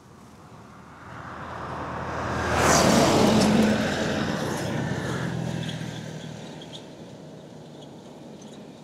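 A motor vehicle driving past on the road: it approaches, is loudest about three seconds in, then fades away.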